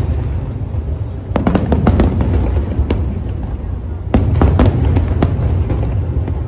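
Aerial fireworks shells bursting: sharp bangs and crackles in quick clusters, about a second and a half in and again from about four seconds in, over a steady low rumble.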